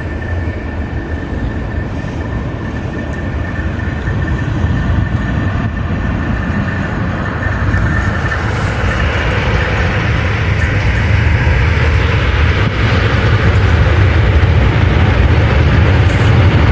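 A train drawing nearer, its low rumble growing steadily louder, with a thin steady whine that fades out about halfway through.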